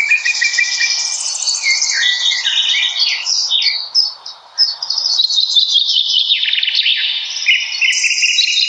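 Several songbirds singing at once in spring, with quick overlapping chirps and trills.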